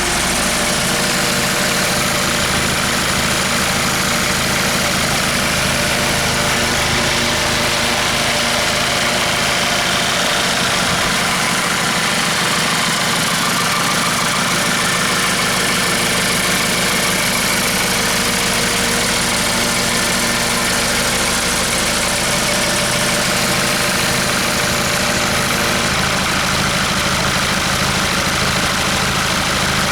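Hyundai D4CB 2.5-litre four-cylinder common-rail turbodiesel idling steadily.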